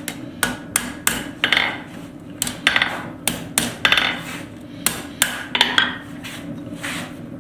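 Hand hammer striking steel tong stock on an anvil, about fifteen blows at roughly two a second in uneven groups, several with a bright metallic ring.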